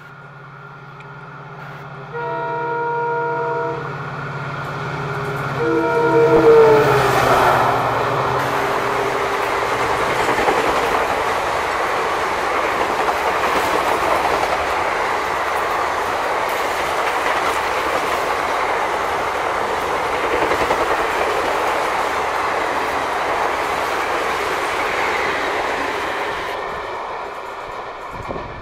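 WDP4D diesel locomotive passing at speed with an express passenger train. Its horn sounds a short blast about two seconds in, then a longer blast whose pitch drops as the locomotive goes by, over the low drone of its engine. The coaches follow with a loud steady rush of wheels on rail that fades near the end.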